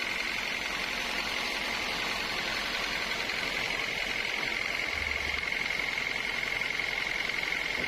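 Sawmill machinery running steadily: an even hiss under a constant high-pitched whine, with no cutting strokes or knocks.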